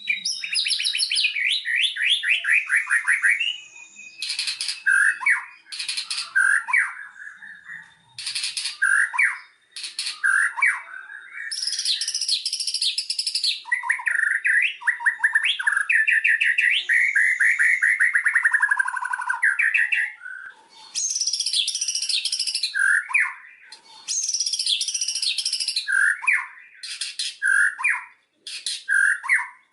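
White-rumped shama singing a long, varied song: fast trills, rapidly repeated sharp notes and whistles gliding up and down, in phrases broken by short pauses.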